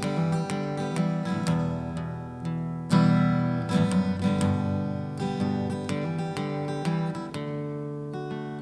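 Instrumental passage of a song on strummed acoustic guitar, with a hard strum about three seconds in.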